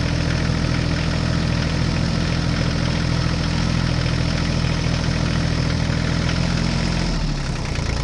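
Tractor-type diesel engine idling steadily with a low throb; its pitch drops about seven seconds in.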